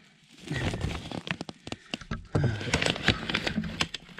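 Plastic vapour-barrier sheeting on a ceiling crinkling and crackling as it is pulled up and handled, with a few low handling bumps.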